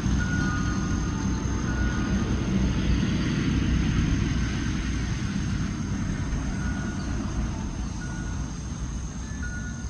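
Steady low rumble, swelling a few seconds in and easing toward the end, under a continuous high-pitched insect trill.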